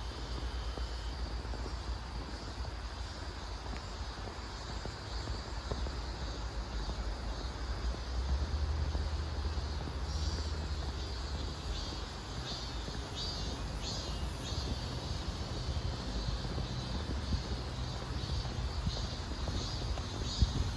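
Crickets and other night insects chirping in evenly spaced pulses, clearer from about halfway through, over a steady low rumble.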